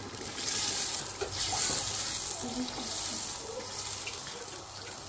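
Pepper and onions frying in hot oil in a pot, sizzling steadily as the tomatoes go in.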